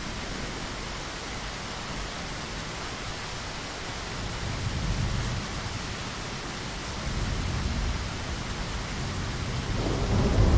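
Steady rain, with low rumbles of thunder swelling up a few times; the loudest rumble builds near the end.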